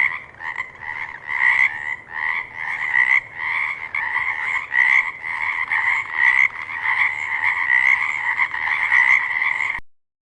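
Frogs croaking, short calls repeated about three times a second, stopping abruptly near the end.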